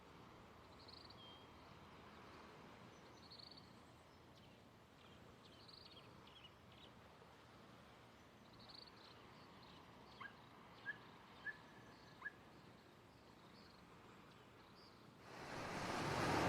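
Faint outdoor hiss with small birds chirping here and there, and four short sharp chirps in quick succession about two-thirds of the way in. Near the end, ocean surf swells up quickly and becomes loud.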